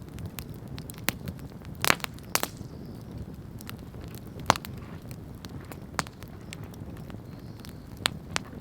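Wood bonfire crackling: irregular sharp pops and snaps from the burning wood over a low steady rumble of the flames, with a few louder pops about two seconds in and again about four and a half seconds in.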